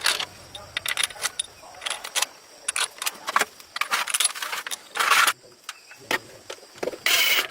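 Repeated sharp metallic clinks and rattles, like small metal tools or parts being handled, with two short noisy bursts about five and seven seconds in.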